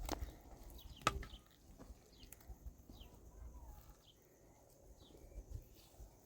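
Two sharp knocks in the first second or so, the second the loudest. After them come faint, short, high chirps of a bird, each sliding down, repeated every second or so.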